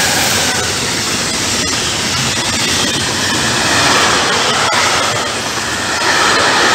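Intermodal container freight train hauled by an E.483 electric locomotive passing close by at speed. The locomotive goes past at the start, then the loaded container wagons roll by with a loud, steady rush of wheels on rails.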